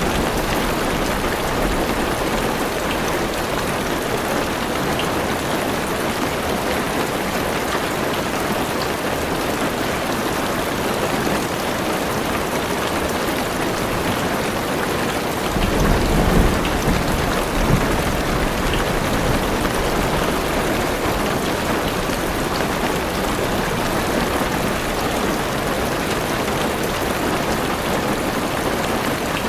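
Heavy rain falling on a car roof and windows, a steady even hiss, with a low rumble of thunder about sixteen seconds in that lasts around two seconds.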